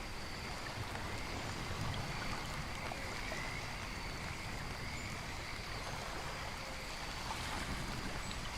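Steady rain-and-nature ambience: an even rush of falling or running water, with faint steady high tones above it.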